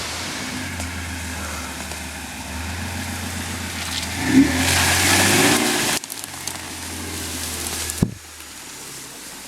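Off-road SUV engine running steadily, then revved for about two seconds around four seconds in. The sound drops off suddenly about six seconds in, and a single sharp knock comes near eight seconds.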